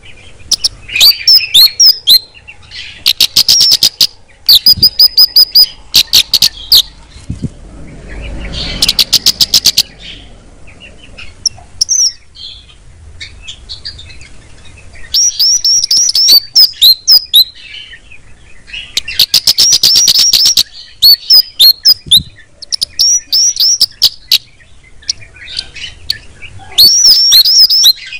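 A kemade (cici geni) songbird singing loudly and close up. Its song comes in repeated bursts of fast, dry, rattling trills and high, sharp chirps, with short pauses between them. This is the rapid rattling 'shot' that birdsong keepers prize as tutor material.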